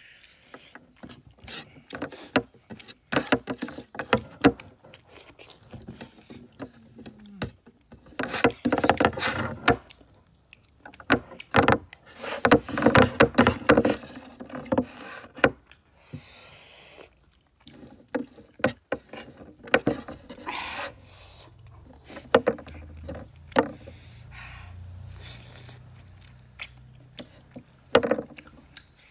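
Close-up eating sounds: chewing a big piece of pork curry, with many short wet mouth clicks and bursts of noisy chewing, and fingers handling the food on a plastic tray.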